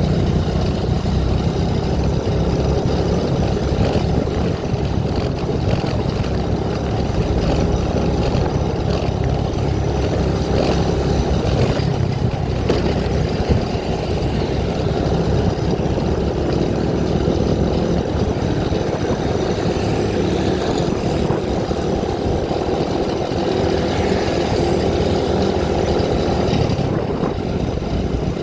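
Vehicle engine running steadily with road and wind noise while travelling, with no clear changes in speed.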